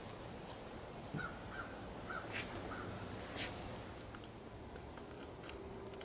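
A bird calling in the background, four short notes in quick succession a little after a second in, over a low steady outdoor hum. A few light clicks come from glass pieces being handled.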